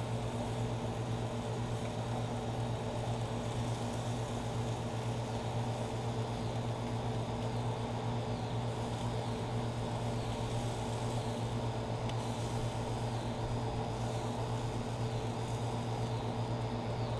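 Steady low mechanical hum with a constant drone, like a running motor or fan.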